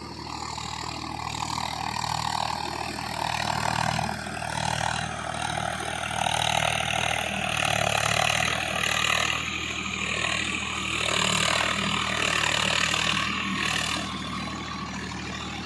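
Swaraj 744 FE tractor's three-cylinder diesel engine running steadily. It grows louder a few seconds in and eases off again near the end.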